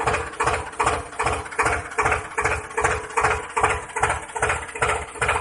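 Engine idling with an even, knocking beat of about four pulses a second over a steady hum.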